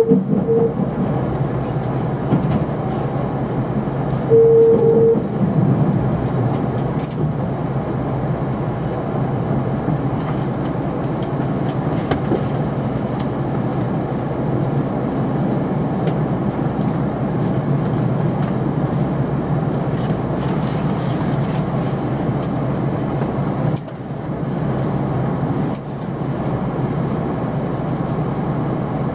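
Steady running noise of a KiHa 261 series 1000 diesel express railcar, heard from inside its passenger cabin, with a short tone twice in the first five seconds and two brief dips in level near the end.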